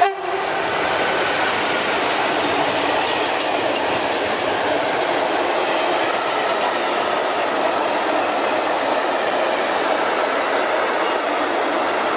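Freight train of rail tank wagons hauled by an electric locomotive, rolling past steadily with a dense rumble and rattle and a faint thin wheel squeal. A brief sharp click comes right at the start.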